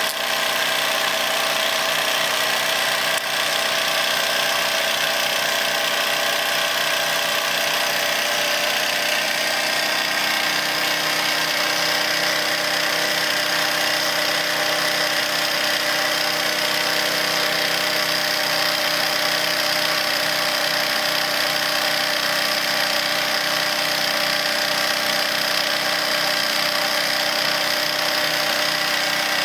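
Wilesco D101 toy steam engine, a small double-acting single-cylinder model, running steadily and driving its line shaft, pulleys and small workshop tools, a grinder and a circular saw. A steady mechanical whirr with a high whine that strengthens about ten seconds in.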